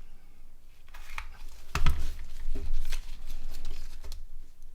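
A few light clicks and taps of small plastic phone housing parts being handled and set down on a work surface, over low handling bumps.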